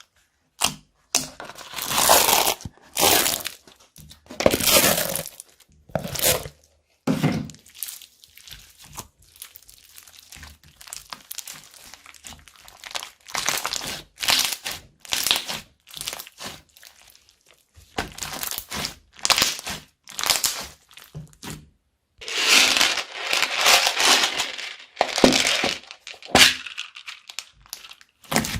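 Slime being squished and stretched by hand, giving irregular bursts of sticky clicks and pops with short quiet gaps between them. The sound thickens into a longer, denser stretch of popping near the end.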